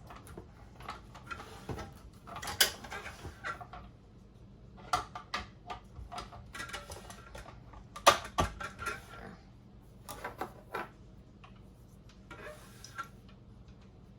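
Clicks, knocks and light clatter of metal and plastic parts of a KitchenAid food grinder attachment being handled and fitted together, in irregular bursts with the loudest knock about eight seconds in.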